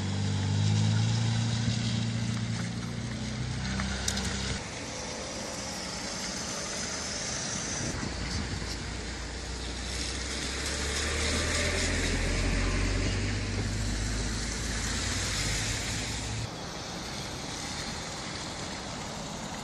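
Car engine and road noise from driving, with a brief knock about four seconds in. The sound changes abruptly a few times.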